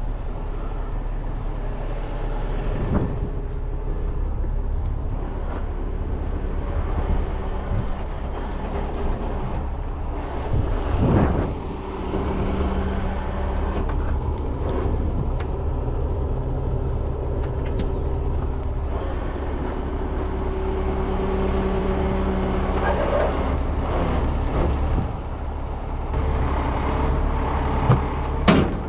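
Heavy tow truck's diesel engine running steadily, with a pitched whine that comes and goes and a few clanks of metal.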